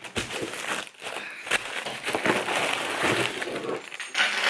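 Packing paper rustling and crinkling as it is handled and crumpled, in an irregular run of crackles.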